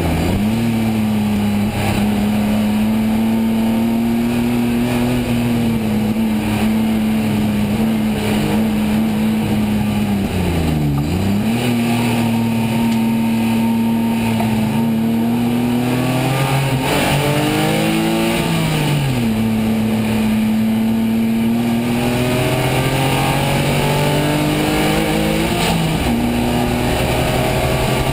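BMW Zilhouette race car's engine heard from inside the cockpit, running hard at a mostly steady pitch. The pitch drops sharply and recovers about eleven seconds in, climbs around seventeen seconds, and dips again near nineteen and twenty-six seconds as the throttle is lifted and reapplied.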